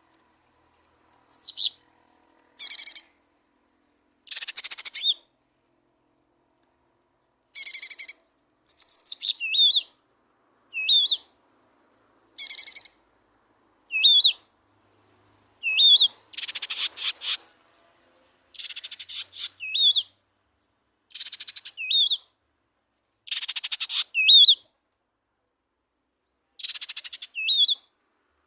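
Cucak ijo mini (small green leafbird) singing in a series of short, high, rapid warbled phrases with quick up-and-down whistled notes, about a dozen phrases separated by brief pauses.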